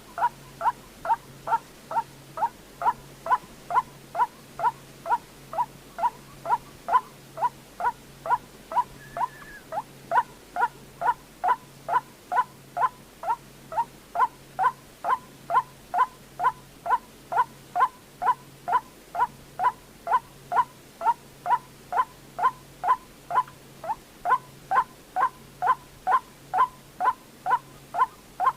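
White-breasted waterhen calling, one short note repeated steadily about twice a second.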